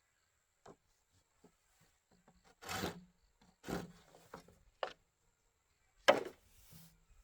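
Bamboo being worked by hand: a few irregular short scraping and rubbing strokes with light knocks, the sharpest about six seconds in.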